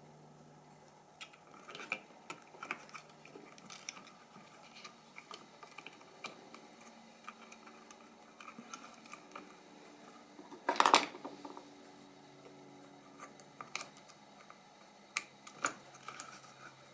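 Small plastic and metal radio parts being handled on a workbench: light scattered clicks and taps, with one louder clatter about eleven seconds in, over a faint steady hum.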